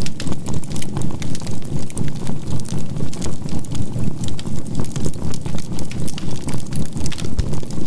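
Synthesized binaural-beat drone, a low hum swelling about three times a second with a faint 528 Hz tone, over the crackle and pops of charcoal burning in a campfire.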